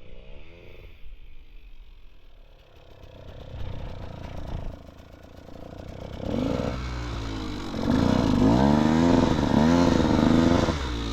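Dirt bike engine revving up and down in repeated surges, quiet at first and loudest over the last few seconds, with the clutch being slipped to get the bike moving in slippery clay mud.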